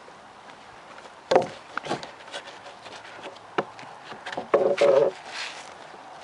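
Wooden cedar table boards knocking and creaking as they are pried loose from their old galvanized nails with a nail puller and hammer: a sharp knock about a second in, scattered clicks, and a short creak near the end.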